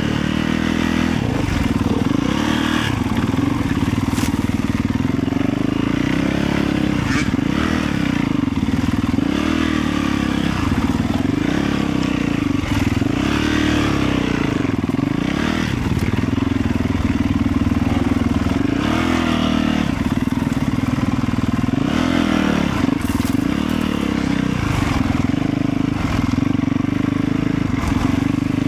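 Motorcycle engine running continuously while riding, its pitch rising and falling a little with the throttle.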